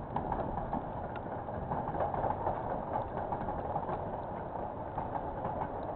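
KiwiRail container freight train wagons rolling past: a steady rumble with scattered clicks of wheels over rail joints, heard through a security camera's microphone.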